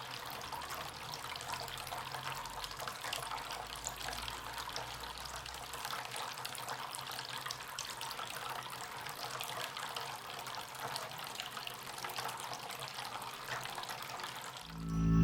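Water trickling and splashing steadily from a small homemade tabletop fountain.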